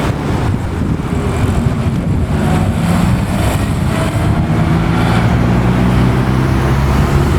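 Classic car engine running at low revs, a steady low note that grows a little louder after the middle.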